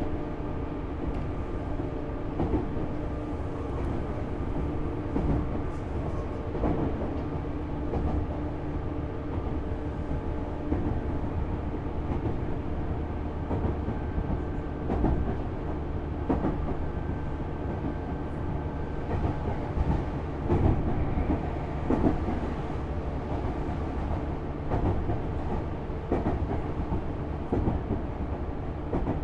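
Interior running sound of a Tobu Railway Series 6050 electric motor car with Hitachi resistor control: a steady rumble of wheels and running gear under a low hum, with scattered clicks from the wheels on the track.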